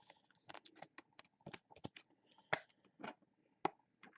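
Trading cards being flipped through and handled by hand: irregular light clicks, snaps and slides of card stock, with a few sharper snaps.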